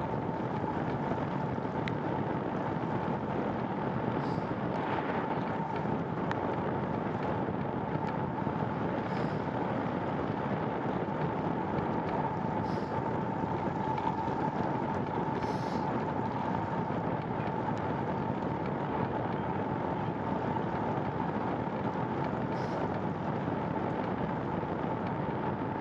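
Steady rushing wind and tyre noise of a bicycle being ridden at about 15 mph, with a faint steady whine underneath.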